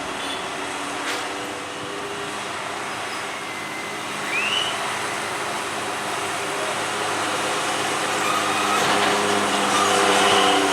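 An engine running steadily with a low hum and a broad noise that slowly grows louder, with one brief high chirp about four seconds in.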